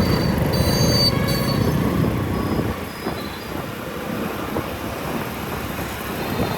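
Motorcycle riding through city traffic: engine, road and wind noise, easing off about two and a half seconds in. A brief high-pitched squeal comes about half a second to a second and a half in.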